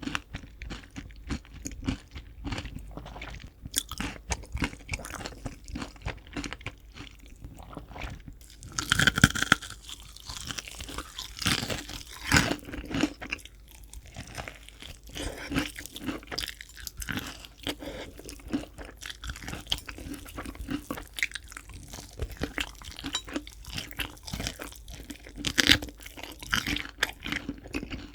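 Crispy fried chicken being bitten and chewed close to the microphone, the batter crackling in dense crunches. Louder bites come about 9 and 12 seconds in and again near the end.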